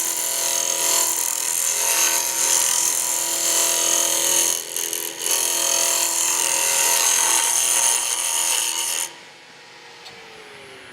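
Turning chisel cutting a spinning wooden spindle on a wood lathe, a loud hissing scrape over the lathe's steady motor whine, with a short break about four and a half seconds in. The cut stops about nine seconds in, leaving the quieter lathe hum, which slides down in pitch near the end as the lathe slows.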